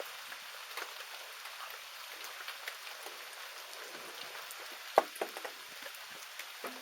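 Rain falling: a steady hiss of rain with scattered drips and taps, one louder tap about five seconds in.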